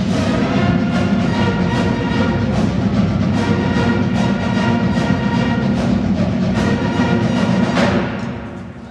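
High school marching band playing a stand tune: brass over drums keeping a steady beat of about two to three strokes a second. Near the end the beat stops and the final chord dies away as the piece ends.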